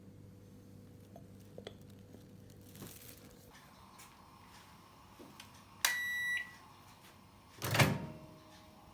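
A low appliance hum cuts off about three and a half seconds in. Later comes one electronic beep lasting about half a second, then a loud thud near the end.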